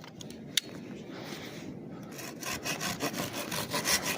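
Hand saw cutting through a branch, starting about two seconds in with quick back-and-forth strokes, several a second. A single sharp click comes about half a second in.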